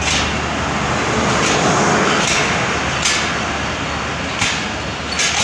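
Hazara Express passenger coaches rolling slowly along the platform: a steady rumble of wheels on the track, broken by sharp clacks at uneven intervals, about five of them.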